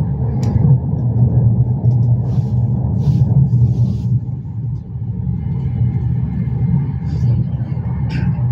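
Intercity passenger train running along the track, heard from on board as a steady low rumble, with a few faint short clicks and hisses over it.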